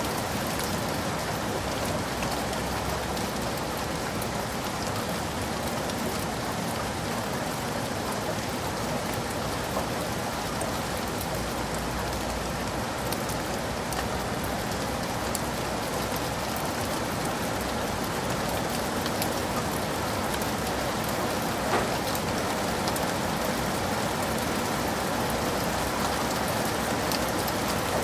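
Heavy rain falling steadily, an even hiss with scattered sharp drop ticks and one louder tick about three-quarters of the way through.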